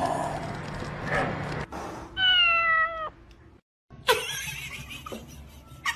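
A cat meowing once: a drawn-out meow lasting about a second that falls slightly in pitch toward its end.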